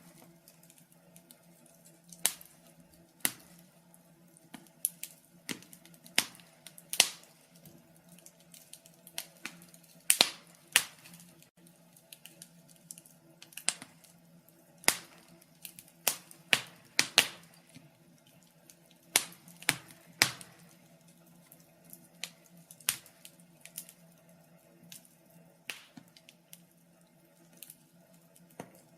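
Wood fire crackling: irregular sharp pops and snaps, a few much louder than the rest, over a faint steady low hum.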